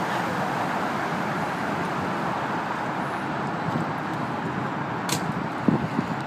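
Steady rushing noise of a 24-foot Cobalt boat under way, its engine and the water blending into one even sound. There is a sharp click about five seconds in and a couple of brief thumps just after.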